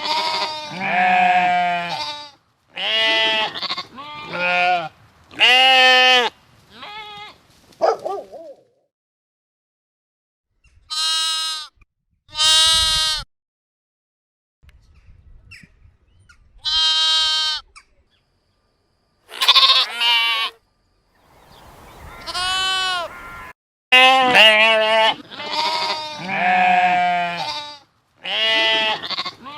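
Sheep bleating: a series of separate quavering baas, each about a second long, crowded together near the start and the end and spaced out with short silent gaps in the middle.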